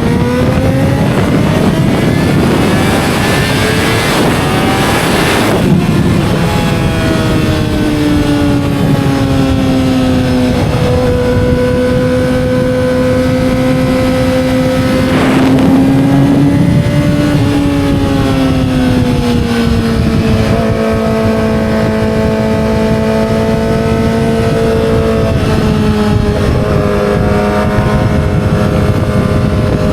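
2007 Yamaha R6's inline-four engine under way. The revs climb for about five seconds, then drop. After that the engine holds a fairly steady note, rising and falling a little.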